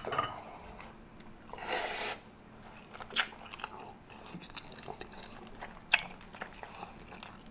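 A person chewing a mouthful of buttery garlic rotisserie chicken, with wet mouth sounds. A brief hiss comes about two seconds in, and two sharp clicks come at about three and six seconds.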